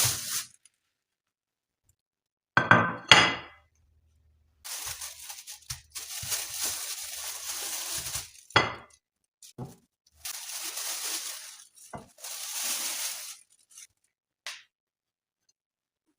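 Dishes and glassware clinking and knocking as they are handled, with stretches of hissing noise between the clinks.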